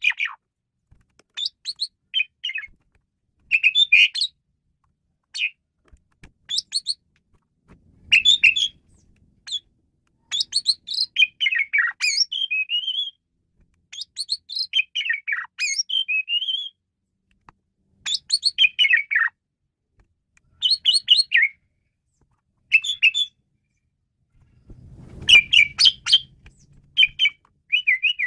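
Asian pied starling (jalak suren) singing: short phrases of rapid chattering, squeaky notes and sliding whistles, one after another with brief pauses between them.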